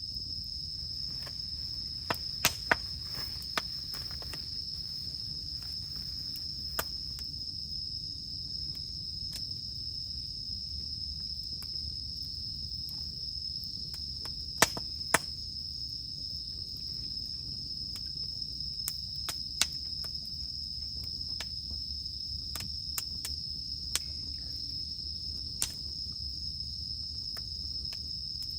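Campfire crackling, with scattered sharp pops of burning wood. Behind it, cicadas keep up a steady high drone.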